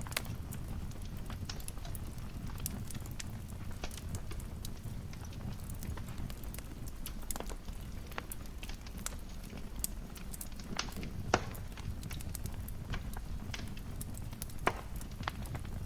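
Wood fire crackling in a fireplace: irregular sharp pops and snaps over a steady low rumble of the flames, with a couple of louder pops in the second half.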